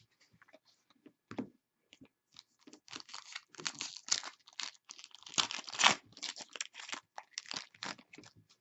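Crinkling, tearing rustles of trading-card packaging and cards being handled, irregular and loudest about four and six seconds in.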